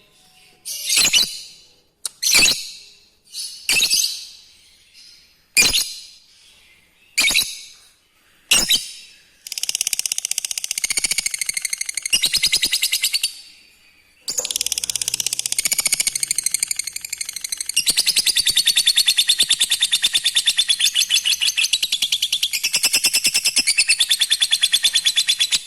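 Lovebird calling: single sharp, shrill chirps about every second and a half, then a fast chattering trill of a few seconds, and after a short pause a long unbroken chatter lasting about eleven seconds, the long 'ngekek' song.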